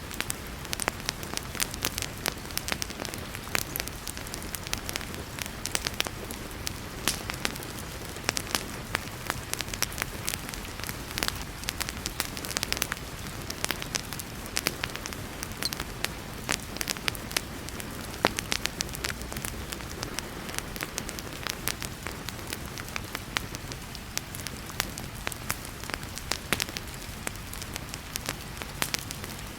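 Wood fire crackling, with many irregular sharp pops and snaps, over a steady hiss of heavy rain.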